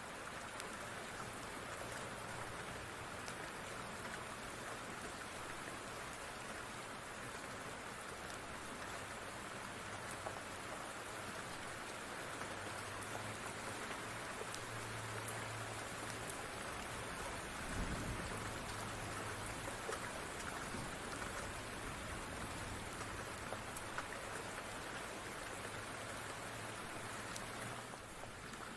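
Steady rain falling, with a brief low thump about two thirds of the way through.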